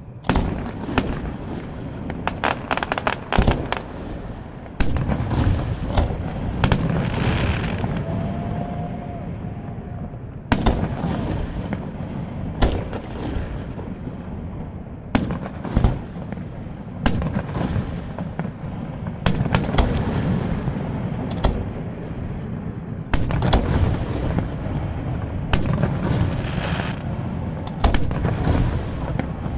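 Aerial fireworks shells bursting one after another, a sharp boom every second or two, some in quick clusters of crackling reports, with echoing rumble between them.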